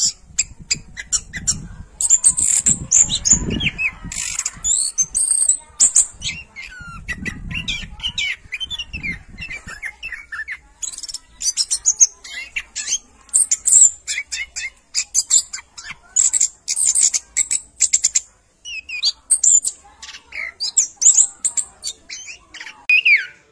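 Birds chirping and squawking, a busy run of short high calls and quick pitch glides, with sharp clicks mixed in.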